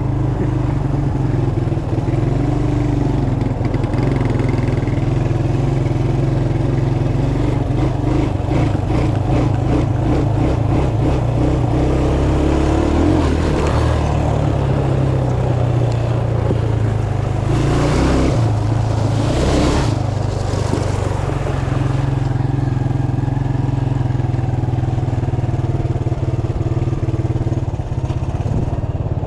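Mini bike engine running steadily at an even speed, with two brief louder swells of noise about eighteen and twenty seconds in.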